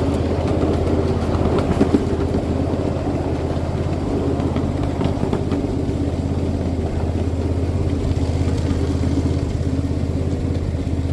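Small engine of a ride-on miniature railroad train running steadily as it travels along the track, with a few light clicks in the first couple of seconds.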